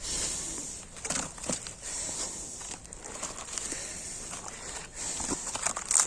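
Irregular crackles and snaps of dry twigs and bark as a small campfire is being rekindled.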